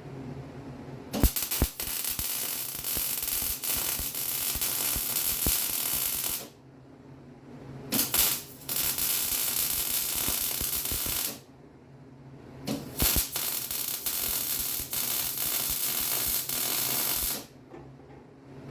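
Electric arc welder laying beads on a steel Jeep frame cross member: three runs of crackling, sizzling hiss, each a few seconds long and each starting with sharp pops as the arc strikes, with short pauses between.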